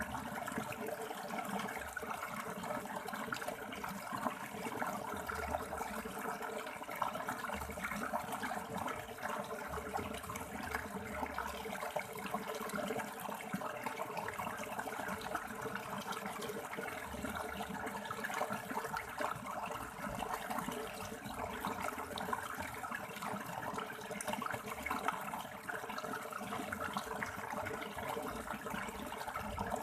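River water running over rocks: a steady, unbroken rushing babble.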